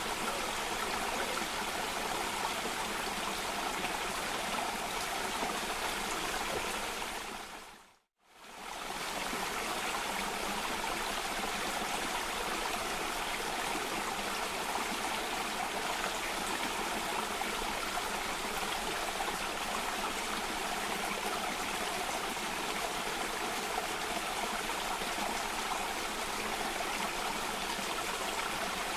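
Water of a cascading stream rushing and splashing steadily. About eight seconds in it fades out to silence and then fades back in.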